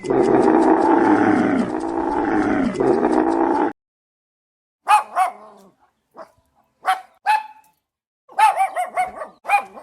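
A dog calling: a continuous stretch of pitched whining for the first few seconds, then short, high yips and barks in small bursts, with gaps between them.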